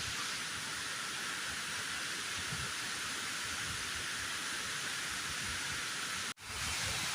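Steady rushing hiss of a 120 m high waterfall crashing down, with a brief cut-out near the end.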